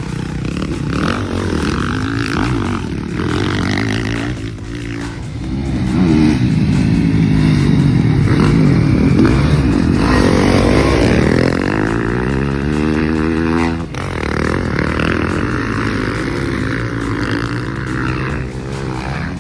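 Motocross dirt bike engines on track, revving hard and changing pitch with the throttle. One bike climbs steadily in pitch and then cuts off sharply about two-thirds of the way through.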